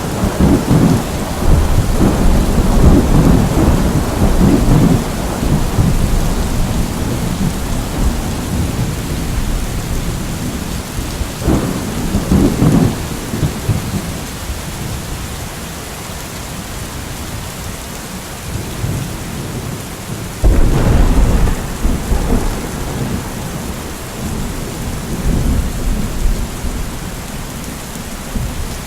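Steady rain falling, with rolls of thunder rumbling over it: a long roll in the first few seconds, another about twelve seconds in, and a sharp crack about twenty seconds in that rolls on for several seconds.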